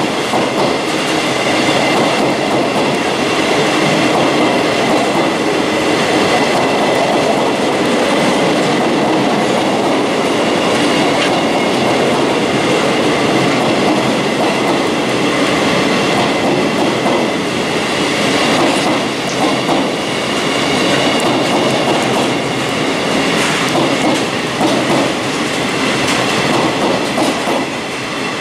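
Empty intermodal flat wagons of a freight train rolling past close by: a steady rumble and rattle of wheels on the rails, with a thin steady high tone running through it and a clickety-clack over the rail joints. It thins out near the end as the last wagon passes.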